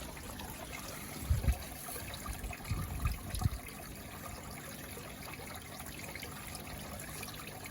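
Garden pond waterfall trickling steadily, with a few low bumps in the first few seconds.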